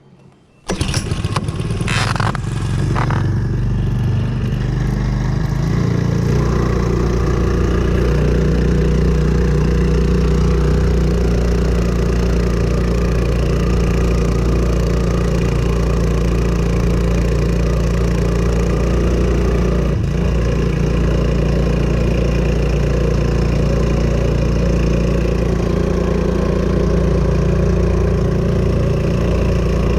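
Hangkai 4 hp four-stroke single-cylinder outboard motor comes in about a second in and then runs steadily, pushing the boat up onto its trailer.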